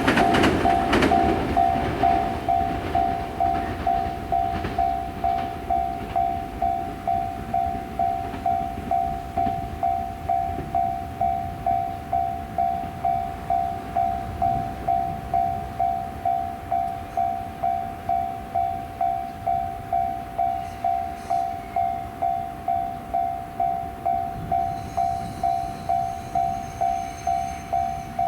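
A Japanese railway level-crossing alarm clanging steadily in an even, repeating ring about twice a second, with train rumble dying away in the first couple of seconds.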